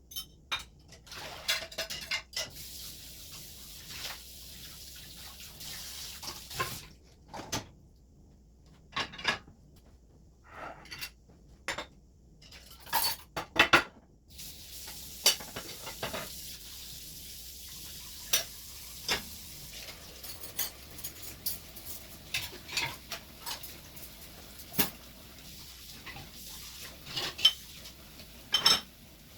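Dishes and cutlery clinking and clattering as they are handled, in a string of sharp, irregular knocks. A steady hiss sits behind the second half.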